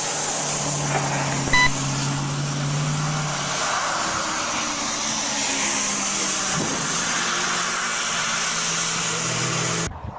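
Steady noise of a car driving among traffic, with a low engine hum. A short high beep sounds about one and a half seconds in.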